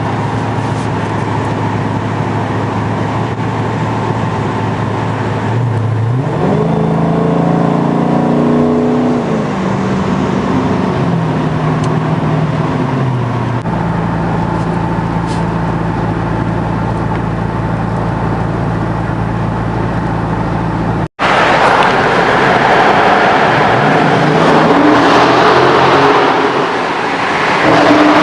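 Dodge Charger Scat Pack's 392 V8 exhaust, with Dynomax mini race bullet mufflers in place of the mid mufflers, idling with a deep steady burble, revved once about six seconds in and settling back to idle. After a sudden cut about two-thirds of the way in, it runs louder and rougher, swelling near the end.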